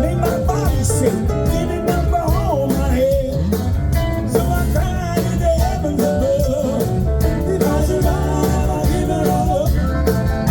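A live blues band playing an instrumental passage: drums keep a steady beat under bass and a lead line that bends in pitch.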